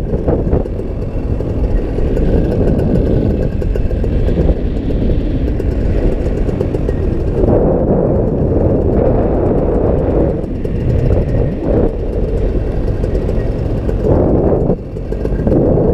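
Loud, gusty wind rushing over the microphone of a paraglider pilot in flight, surging and easing by turns.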